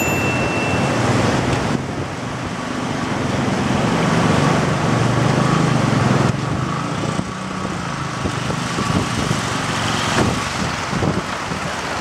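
A motor vehicle running on the road, its engine mixed with road and wind noise, changing abruptly twice as the footage cuts.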